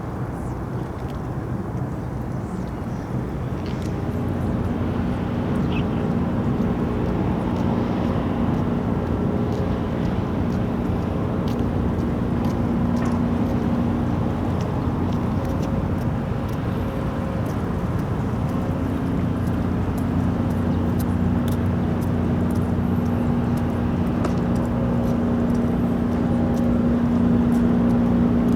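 A steady low engine rumble with a hum, slowly growing louder.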